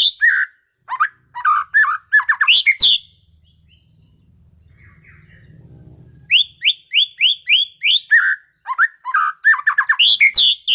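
White-rumped shama (murai batu medan) singing: runs of quick rising whistled notes, about five a second, broken by lower fluty phrases. The song stops for about three seconds midway, then starts again with the same rising notes.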